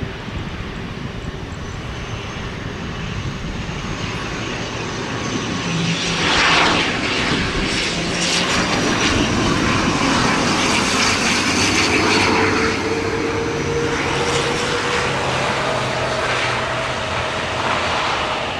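ATR 72-600 twin-turboprop airliner passing close on landing: the propeller and engine noise grows louder, peaks with its pitch dropping about six seconds in as it goes by, and stays loud afterwards.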